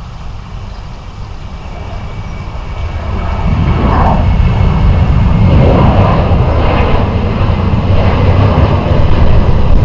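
Jet airliner engines, a deep rumble that grows louder about three seconds in and stays loud as the aircraft passes.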